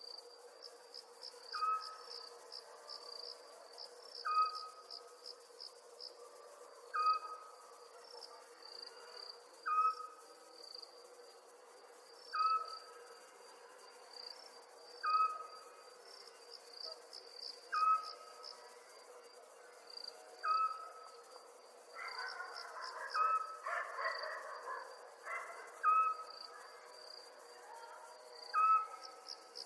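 Night ambience of crickets chirping in quick trills over a steady low hum. A short call repeats about every two and a half seconds, and a rougher, noisier patch comes in about three quarters of the way through.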